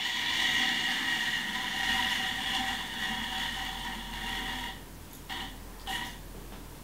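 A steady whir like a small electric motor running, with a hiss under it. It drops away about five seconds in, then gives two short whirs.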